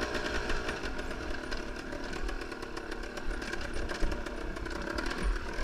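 Enduro motorcycle engine running at fairly steady revs, with many short clicks and rattles over it.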